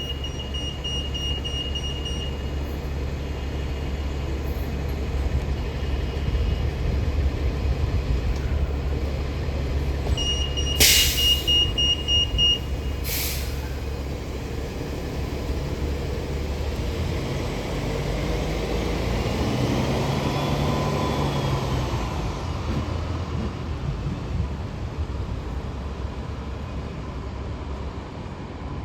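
Caltrain electric multiple-unit train (a Stadler KISS set) pulling out of a station over a steady low hum. A high steady beep sounds twice, at the start and about ten seconds in. Two sharp hisses of air come about eleven and thirteen seconds in, followed by a whine that rises and falls around twenty seconds in.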